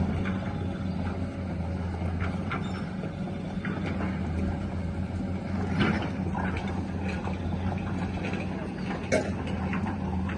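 Excavator's diesel engine running steadily, with scattered knocks and clanks over its hum.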